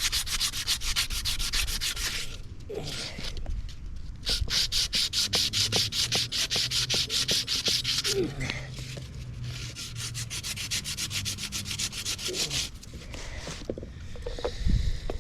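Fast, even back-and-forth rubbing of abrasive on a pipe, as when cleaning pipe or fittings before joining, in three long runs of about eight strokes a second with short pauses between.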